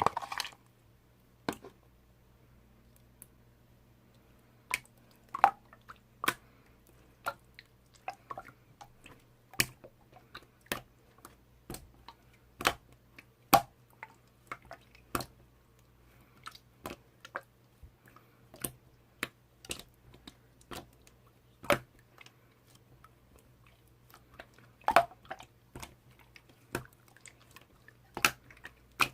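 Slime being squeezed and pressed by hand, giving sharp, irregular clicks and pops about once or twice a second.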